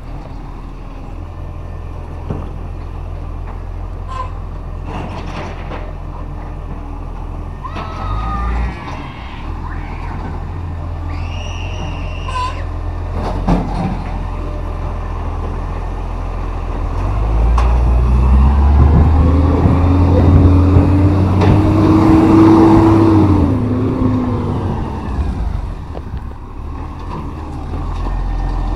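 Recycling truck's engine running steadily, then revving up for about seven seconds a little past halfway before settling back, with a few short clanks and hisses along the way.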